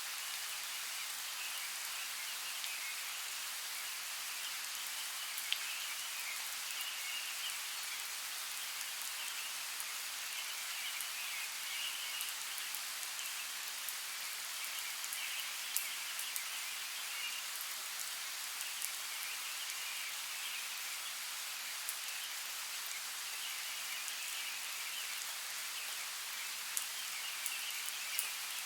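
Forest creek water running as a steady hiss, with scattered faint ticks and a high trilling that comes and goes in patches.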